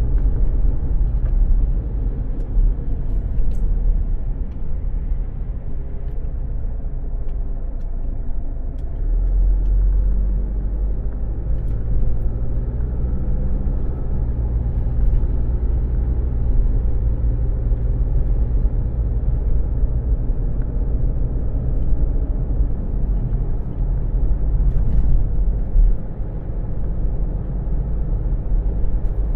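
Steady low rumble of a car heard from inside its cabin, with a faint engine hum that comes up about a third of the way in.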